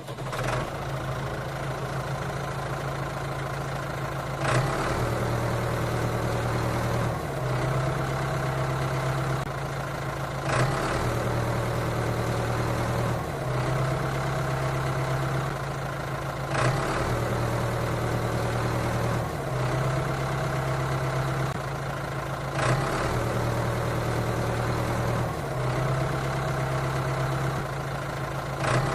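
Engine-like idling drone from a mini tractor. It is steady and low, with a short click and a slight shift in pitch repeating evenly about every three seconds.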